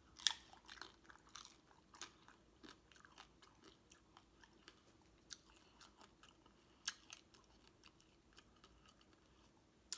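Close-miked chewing: irregular wet mouth clicks and smacks, with a sharp click about a third of a second in and another near seven seconds.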